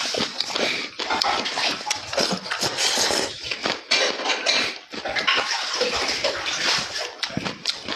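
Close-up eating sounds: wet chewing, smacking and slurping of food, many small irregular mouth noises one after another.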